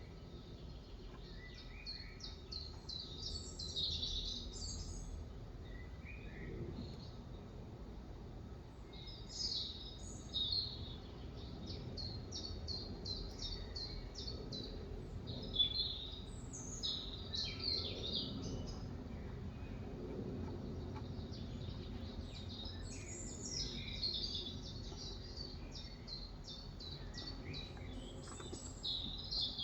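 Birds chirping and singing in many quick, high chirps and short trills that come and go throughout, over a low, steady background rumble.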